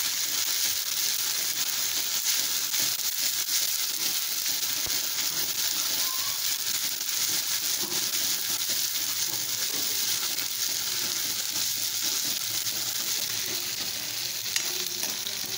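Chopped onion and cumin paste sizzling steadily as they fry in hot oil in a metal wok, stirred with a metal spoon.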